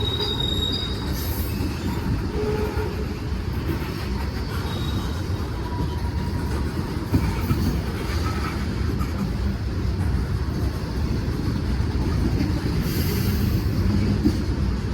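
Freight train cars rolling past close by: a steady low rumble of wheels on rail, with a few faint, brief wheel squeals.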